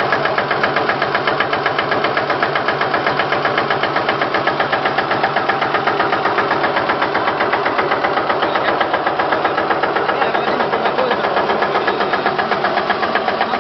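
Engine idling steadily with an even, rapid pulsing beat, about five pulses a second.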